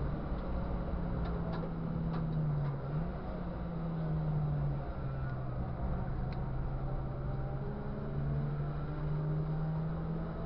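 Race car engine heard from the onboard camera, its pitch rising under acceleration, dipping and recovering about three seconds in and dropping again about five seconds in with gear changes, then climbing steadily. Wind and road noise run underneath, with a few sharp knocks.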